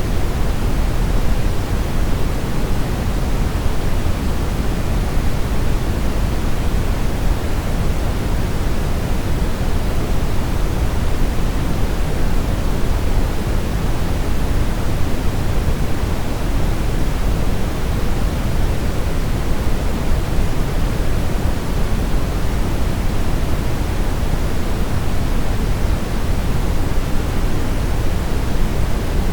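Steady brown noise: an even, unbroken deep rushing hiss, heaviest in the low end and thinning out toward the highs.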